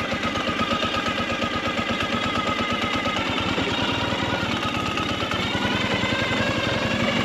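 Motorcycle engine running under way, a fast even pulsing of its firing strokes, its pitch shifting slightly as the revs change partway through.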